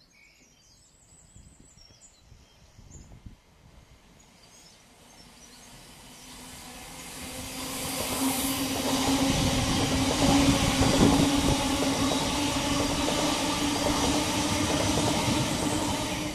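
Electric multiple unit passenger train approaching and running past: the rush of wheels on rail grows over several seconds from faint to loud, with a steady low hum from the train, and stays loud as the long train goes by. Birds chirp faintly at the start.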